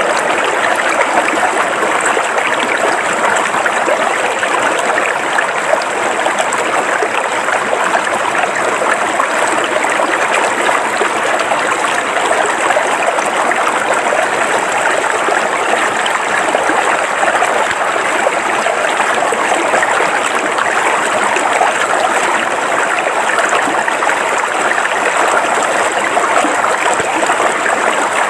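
River water flowing steadily over rocks, a continuous babbling rush with no pauses.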